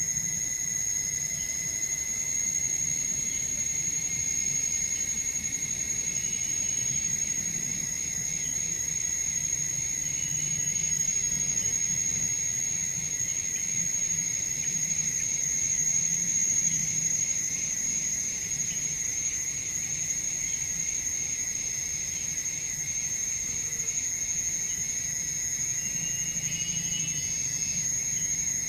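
Insects calling in a continuous, steady high-pitched chorus, with a second, lower insect tone running beneath it.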